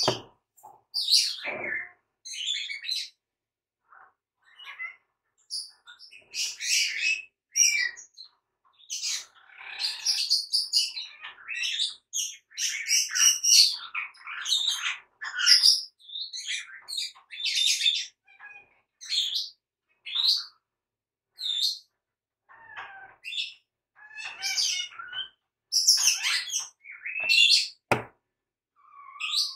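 Small songbird chirping and singing in irregular short bursts of high notes with brief gaps between them. A single sharp knock near the end.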